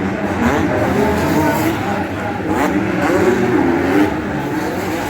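Motocross bike engines racing, revving up and dropping back again and again through gear changes.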